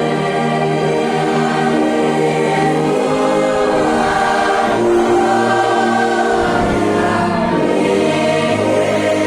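A congregation singing a slow hymn together with an orchestra, many voices holding long notes that change every second or so.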